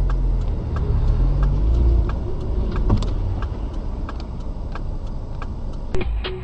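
Car running, heard from inside the cabin: a steady low engine and road rumble with a light, regular ticking about three times a second and a sharper click about halfway through.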